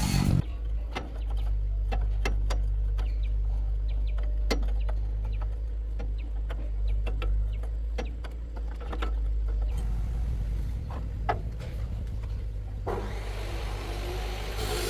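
A series of light metallic clicks and taps over a steady low hum, with a rougher, hissing mechanical noise briefly at the start and again near the end.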